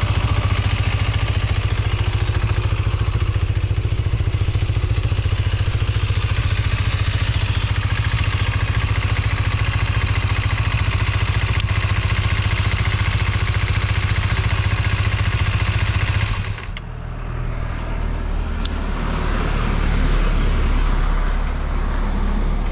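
Kawasaki GPX250's 248 cc parallel-twin engine idling steadily and evenly, with no abnormal noise, then cutting off abruptly about sixteen seconds in. A lower rumble follows, swelling again, with a single click a couple of seconds after the cut-off.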